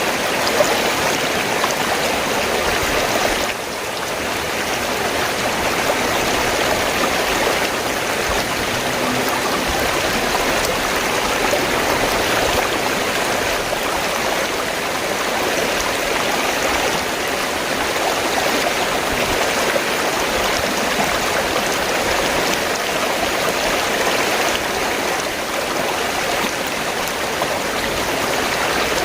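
River water flowing in a steady, even rush, dipping briefly about three and a half seconds in.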